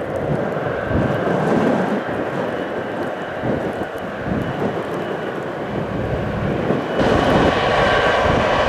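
Boeing 777 jet engines running with a steady rush and a faint whine. The sound gets louder about seven seconds in.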